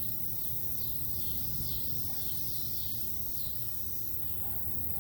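Outdoor ambience: high chirps of insects repeating about twice a second over a low steady rumble.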